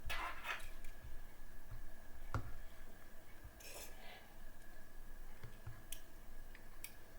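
Wire fan-mounting clips being hooked onto a CPU cooler's fan: scattered small clicks and scrapes of metal clip on plastic fan frame, with one sharp click about two and a half seconds in.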